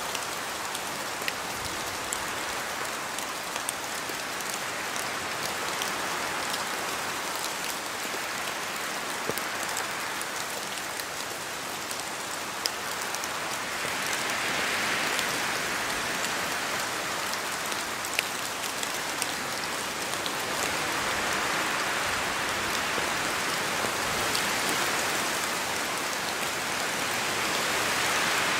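Steady rain falling through spruce forest, with scattered sharp drips from the trees. The hiss swells and eases in slow waves, strongest around the middle and again near the end, as wind moves through the trees.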